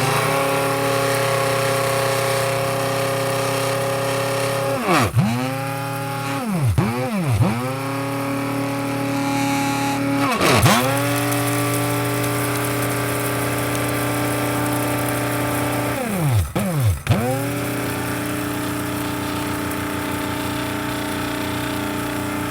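Electric coffee grinder motor running with a steady whine. Several times its pitch drops sharply and climbs straight back, twice in quick succession at a time.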